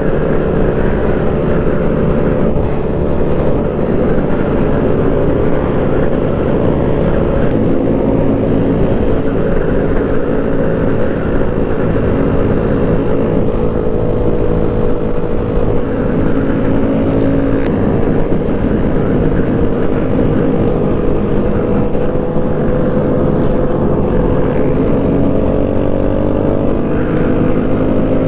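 Motorcycle engine running steadily while under way, its pitch drifting only slightly with small changes in speed.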